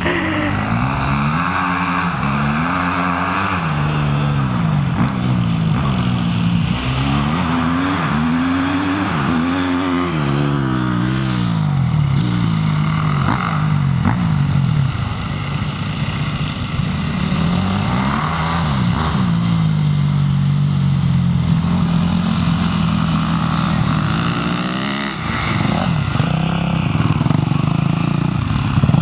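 Motocross dirt bike engine running under way, its pitch repeatedly climbing and dropping back as the throttle opens and gears change, holding steadier for a few seconds in the second half.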